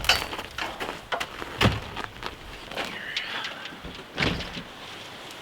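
Several irregular knocks and thumps, with a brief rising squeak about three seconds in.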